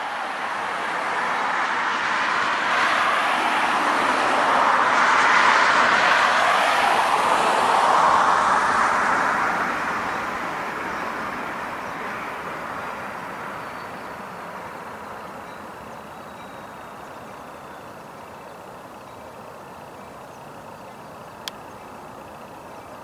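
Metrolink train with an EMD F59PH diesel locomotive rolling past and away on the tracks: a rushing wheel-and-engine noise that is loudest about five to eight seconds in, then fades steadily as the train recedes. A single sharp click near the end.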